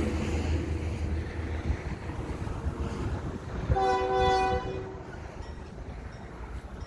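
Union Pacific freight train rumbling past, with one short horn blast, a chord of several notes lasting about a second, nearly four seconds in.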